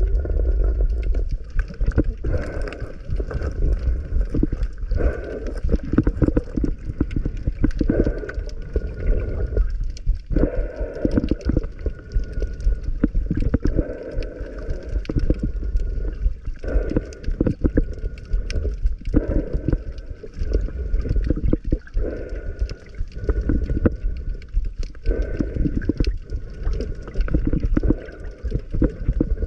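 Underwater water noise around a free diver: muffled gurgling and bubbling, dense with small clicks and crackles, rising and falling in waves.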